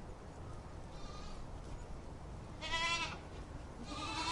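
A goat or sheep bleating: a faint call, then two clear, high-pitched bleats of about half a second each, the last one starting near the end.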